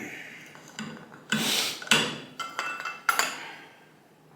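Metal motorcycle front-fork parts being fitted together by hand: a few sharp clinks and knocks, a brief scrape a little over a second in, and a couple of strikes that ring briefly, dying down after about three and a half seconds.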